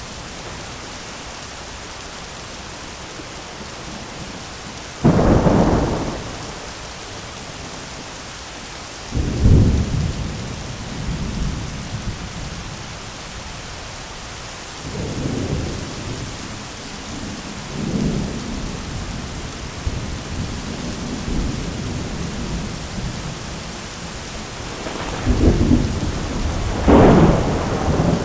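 Thunderstorm: steady heavy rain, with thunder breaking in suddenly about five seconds in and again about four seconds later, lower rumbles in the middle, and two loud peals near the end.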